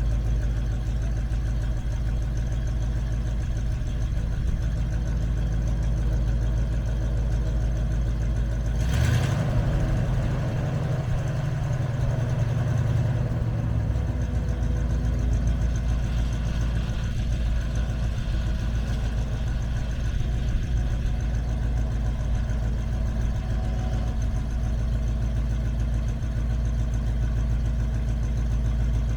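1976 International 1600 Loadstar truck engine idling steadily, with one brief rev lasting about five seconds that starts about a third of the way in, before it settles back to idle.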